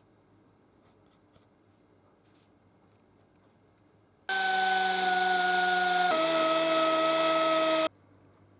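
A power tool running for about three and a half seconds, a steady motor whine over a hiss. It starts and stops abruptly, and its pitch drops a little partway through.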